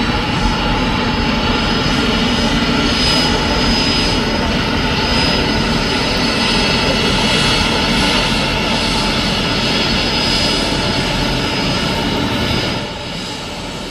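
Jet engines of a Boeing 767-300ER running loud and steady, a dense rush with a high whine on top. The level falls a few decibels near the end.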